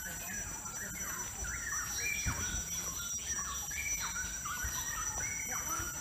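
Forest birds chirping, with many short notes repeated quickly and overlapping, over a steady high-pitched drone.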